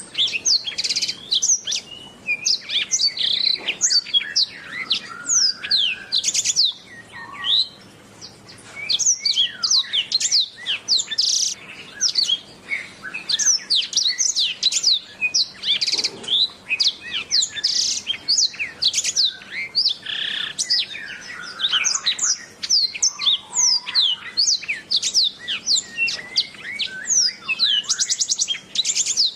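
Domestic canary singing a fast, continuous song of rapid chirps and trills, with a short lull about seven seconds in.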